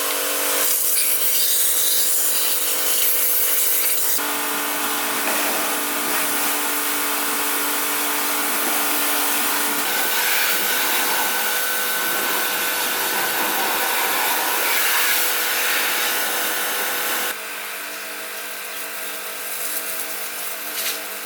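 A small electric power tool running steadily, in several stretches that change abruptly in pitch and loudness.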